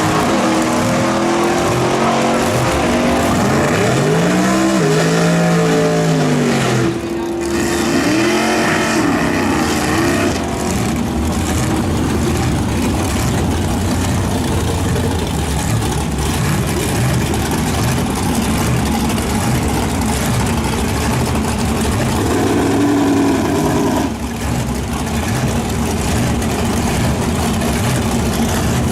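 V8 muscle car engines revving, climbing and falling in pitch several times, then running hard and steady at high revs. The sound breaks off abruptly twice and picks straight up again.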